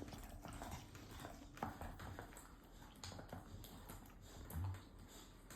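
A Rottweiler chewing a bone: faint, scattered crunches and sharp clicks of teeth on the bone.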